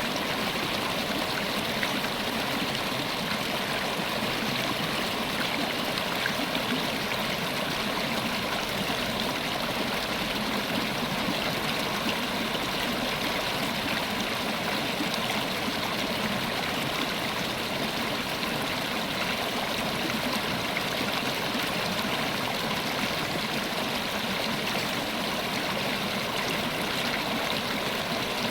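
River water running steadily over rocks, an even rushing and babbling flow with no breaks.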